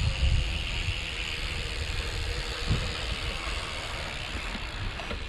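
Wind buffeting the action camera's microphone, with the steady rolling noise of a gravel bike on the move.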